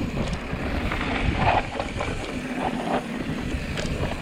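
Wind rushing over a helmet- or bike-mounted action camera with a low rumble of tyres on a dirt trail, and short rattling clicks from a mountain bike jolting over rough ground.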